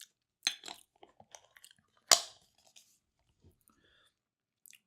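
Mouth sounds of someone tasting a creamy vegetable spread: a scatter of short wet smacks and clicks from lips and tongue, the sharpest about two seconds in.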